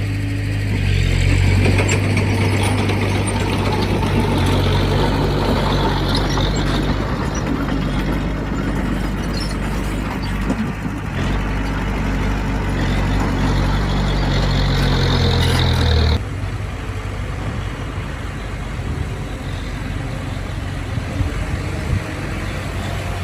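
Heavy diesel engine of earthmoving equipment running steadily under load. About sixteen seconds in, the sound drops suddenly to a lower, quieter run.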